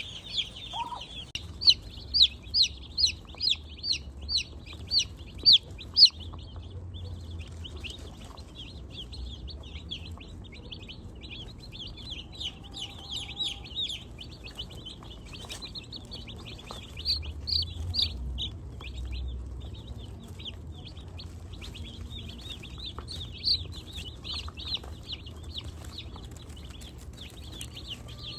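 A brooder full of Cornish Cross meat chicks peeping together in a steady, high chorus of chirps. Between about two and six seconds in, a run of about ten louder, evenly spaced peeps stands out.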